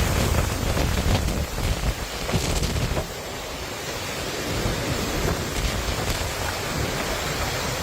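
Storm wind buffeting the microphone over a steady rushing noise of hurricane weather. The gusts ease somewhat about three seconds in.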